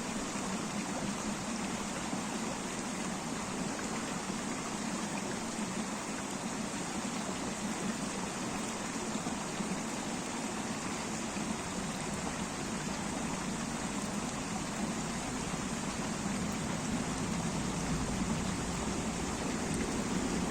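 River water flowing and splashing steadily over stones, a continuous rushing sound.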